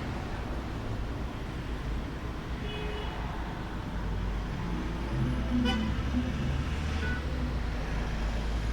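Outdoor ambience dominated by a steady low rumble of road traffic, with a few short high chirps and a brief rattle a little past the middle.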